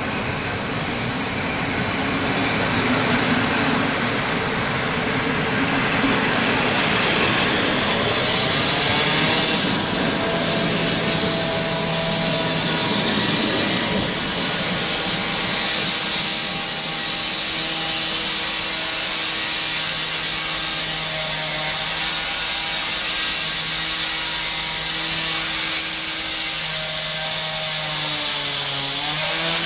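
Passenger coaches and a container freight train rolling past on the station tracks, with steady wheel-on-rail noise and hiss. From about seven seconds in, a whining tone comes and goes, dipping in pitch near the end.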